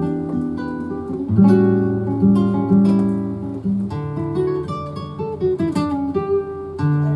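Flamenco guitar playing the introduction to a guajira: ringing strummed chords, with a new chord struck about every two and a half seconds and quick single-note runs in between.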